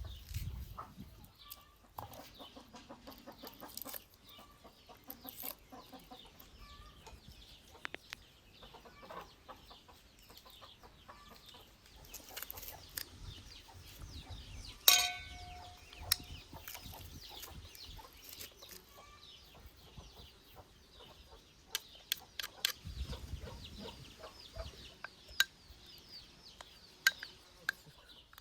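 Domestic chickens clucking on and off, with many quick high chirps from small birds. A single loud, sharp sound with a brief ringing tone stands out about halfway through.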